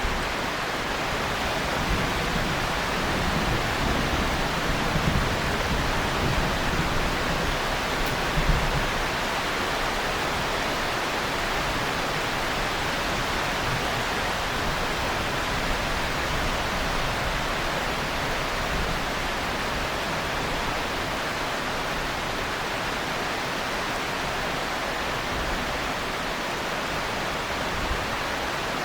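Heavy rain falling steadily in an even hiss, with the low rumble of rolling thunder dying away over the first nine seconds or so.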